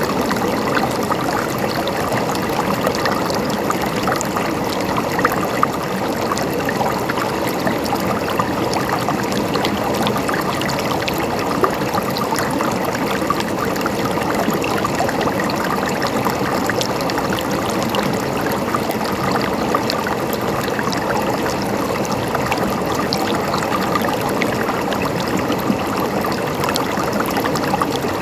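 Mountain stream flowing steadily over rocks, a continuous gurgling and trickling babble with many small splashes.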